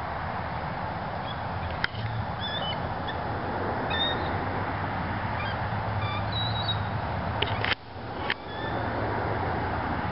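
Short, faint high-pitched bird calls scattered over a steady background rumble and hiss, with a couple of sharp clicks about two and eight seconds in.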